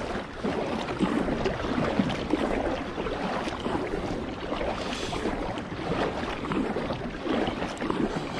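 Water lapping and splashing irregularly around a kayak, with wind rumbling on the microphone.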